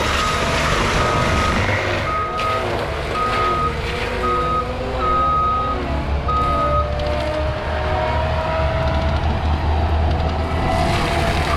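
Skid steer's diesel engine running with its reversing alarm beeping about once a second; the beeping stops about seven seconds in while the engine runs on, its pitch slowly rising.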